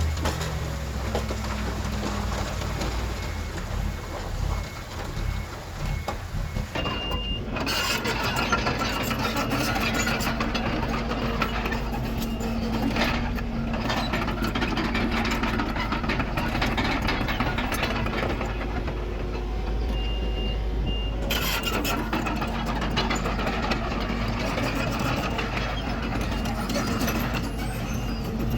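Diesel engines of heavy earthmoving machinery running steadily under load, with a few short high reversing-alarm beeps.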